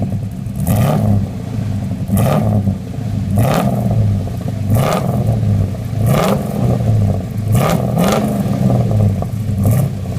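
GM Performance 350 HO small-block V8 being revved in a series of short throttle blips, about one every one and a half seconds, each rise in pitch falling back to idle, through a new MagnaFlow dual exhaust.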